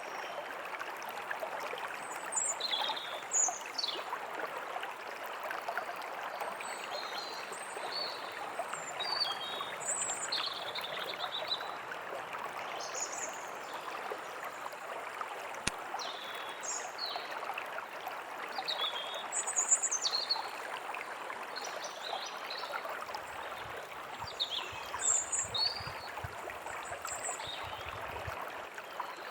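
A stream of running water with small birds chirping and whistling throughout, in short scattered calls. A faint low rumble comes in near the end.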